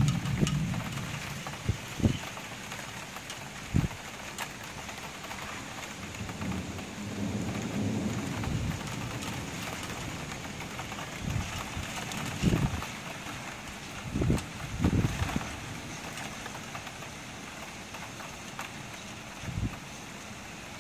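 Steady rain falling, with several short low thumps of wind gusts hitting the microphone and a low rumble lasting a couple of seconds near the middle.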